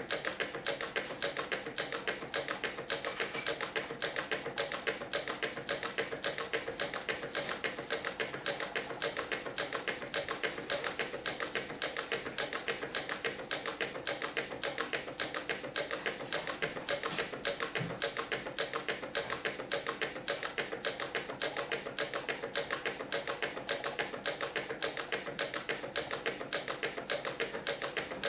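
Meccano-built Stirling engine running steadily, its crank, linkages and output gears clattering in a rapid, even rhythm of clicks.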